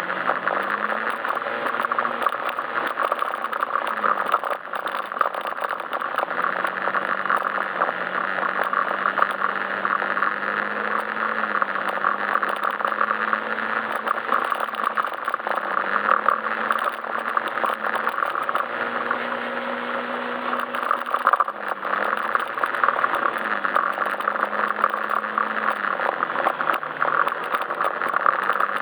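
Yamaha Majesty S SP scooter's single-cylinder engine running under way, its pitch stepping up and down every few seconds with the throttle, under a constant rattly noise from the ride.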